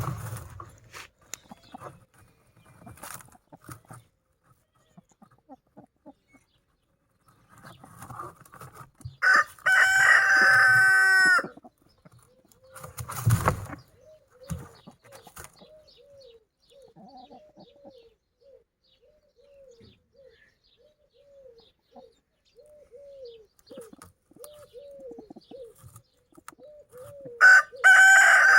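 Rooster crowing twice, once about ten seconds in and again near the end, with chickens clucking in a steady run of short soft calls in between.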